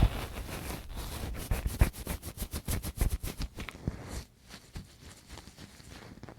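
ASMR ear-cleaning sounds on a Tascam microphone: a tool scratching and scraping close on the mic in quick strokes, about ten a second, after a thump at the start. The strokes stop about four seconds in, leaving faint rubbing.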